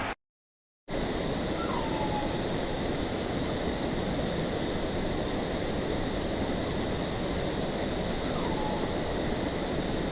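A steady rushing noise that begins after a short dropout about a second in, with two short falling whistles about seven seconds apart.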